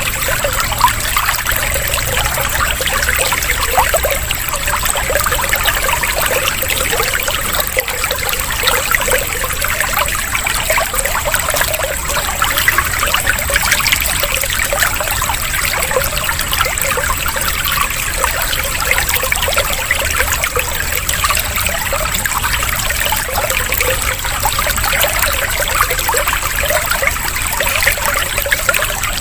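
Running water trickling and splashing steadily, a continuous water-sound track used as a calming interlude between bird recordings.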